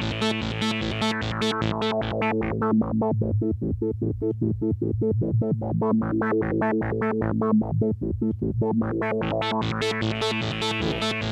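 Boss SY-200 synthesizer pedal running a sequencer patch on a held guitar note, pulsing steadily at about four notes a second. The tone control is swept down, so the pulses turn dull and muffled through the middle, then back up, so they turn bright again near the end.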